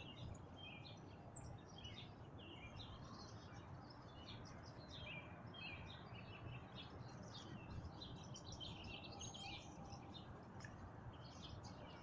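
Northern mockingbird singing faintly: an unbroken run of short, varied chirping phrases, one after another, over a low steady background hum of outdoor noise.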